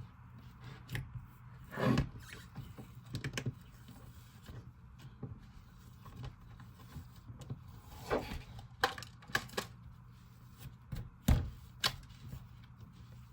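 Hands kneading and stretching an icy slime with clay mixed in, giving irregular sticky clicks and pops, a few of them louder, over a low steady hum.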